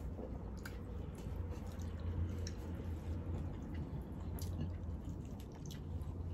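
People chewing mouthfuls of chicken biryani, with soft scattered wet mouth clicks, over a steady low hum.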